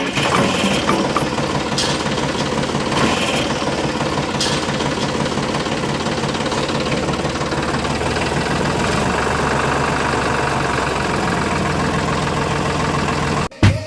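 A machine running steadily with a low, even knocking rattle, which stops abruptly near the end.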